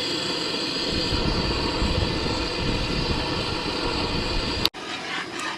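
Camp stove burner running with a steady hiss under a cooking pot, cutting off suddenly near the end.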